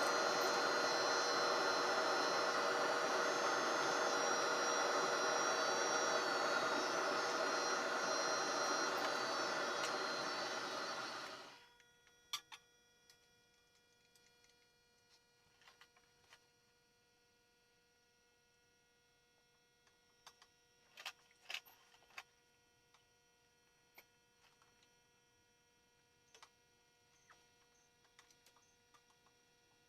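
A steady hum with many steady tones cuts off suddenly about eleven seconds in, leaving only a faint hum and a few scattered light clicks.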